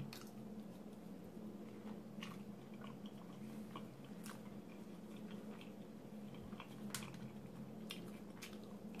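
A person chewing a mouthful of breakfast burrito, with faint wet mouth clicks and smacks every second or two. A steady low hum runs underneath.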